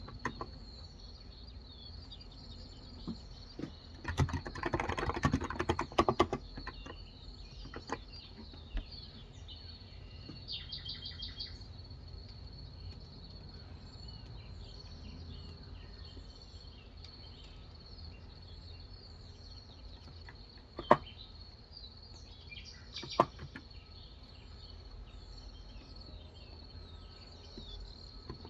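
Typing on a Cox Endeavor 35 g electrostatic-capacitive (Topre-style) tenkeyless keyboard: a short burst of keystrokes about four seconds in, then a few single keystrokes spread far apart. Birds chirp briefly near the middle over a steady faint high tone.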